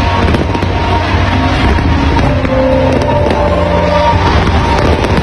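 Fireworks display: a continuous low rumble of bursting shells with a few sharper cracks, over music with held notes.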